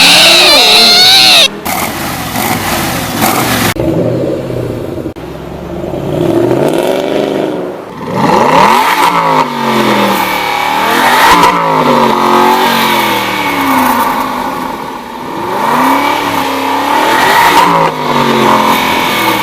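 A supercar engine accelerating hard, its pitch climbing and dropping back at each gear change, several times over. Before that, a loud wavering high sound cuts off suddenly about one and a half seconds in.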